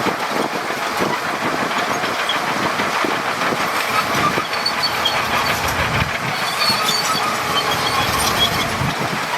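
Crawler bulldozer working: engine running under a dense, steady clanking of its steel tracks, with high squeaks now and then.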